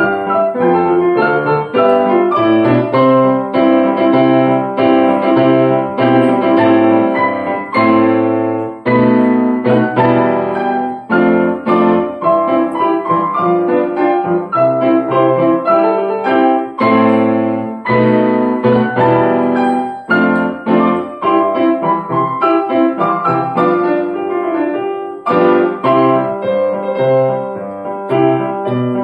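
Piano played four hands by two players, a steady run of notes and chords in both low and high registers throughout.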